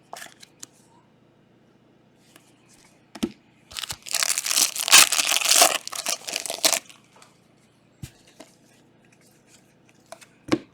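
A trading card pack's wrapper being torn open with crinkling, one loud tear lasting about three seconds that starts around four seconds in, with light clicks of cards being handled before and after.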